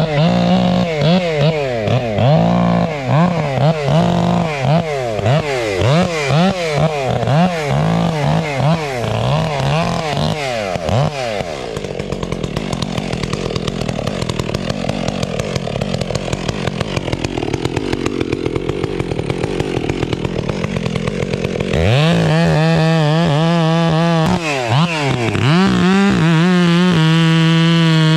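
Chainsaw revving up and down repeatedly, then running lower and rougher for about ten seconds, then held at high steady revs with brief dips near the end.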